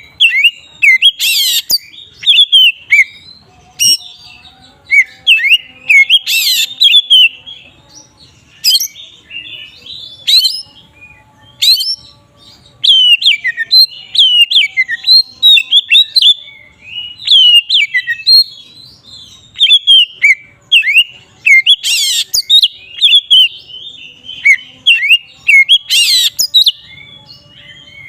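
Oriental magpie-robin (kacer) in full loud 'ngeplong' song: a rapid, varied run of short whistled notes, mostly quick falling sweeps. About four harsh, rasping notes break into the song every few seconds.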